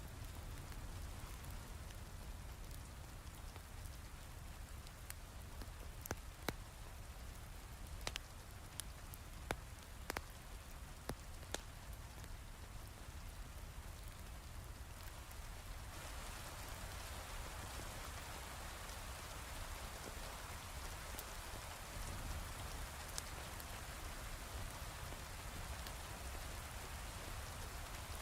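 Steady heavy rain with scattered sharp pops from a crackling wood fire. The rain's hiss grows louder about halfway through.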